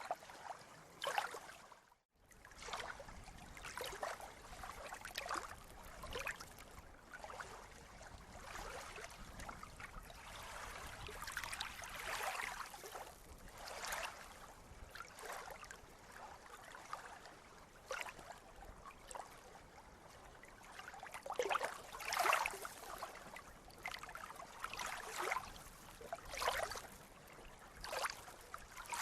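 Sea water lapping and splashing in small irregular surges every second or two over a steady wash, with a brief dropout about two seconds in.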